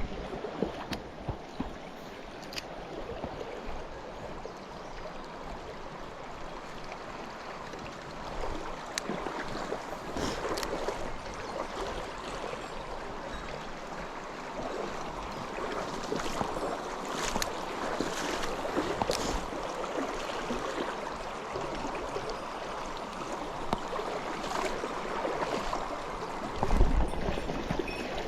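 Small mountain stream flowing, a steady rush of water, with scattered light clicks and a low thump near the end.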